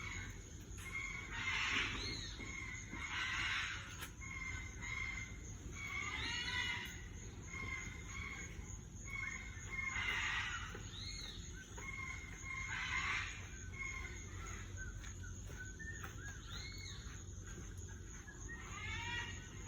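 Birds calling: a run of short repeated chirps and arching squawks, some louder than others, over a faint steady background.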